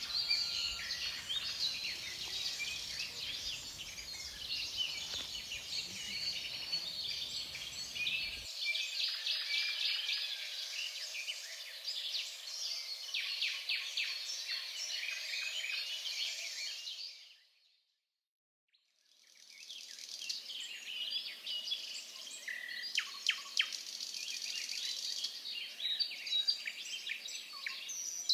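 Dense forest bird chorus, many overlapping high chirps and calls. It fades out to silence about seventeen seconds in and fades back in a couple of seconds later.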